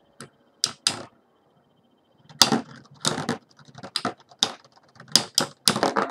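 Spinning Beyblade battle tops clashing in their stadium with sharp plastic-and-metal clacks: a few single hits in the first second, then a quick, irregular run of collisions from a little past two seconds in.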